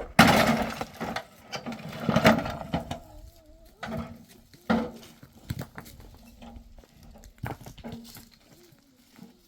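Livestock calling: a loud cry in the first second, then a few shorter calls and a thinner drawn-out call that fades toward the end.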